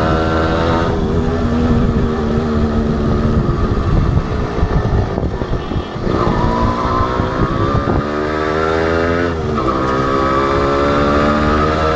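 Honda CDI H100S single-cylinder two-stroke motorcycle engine under way. The revs drop about a second in and run unevenly for a few seconds. They then climb steadily, fall briefly at a gear change near the end, and climb again.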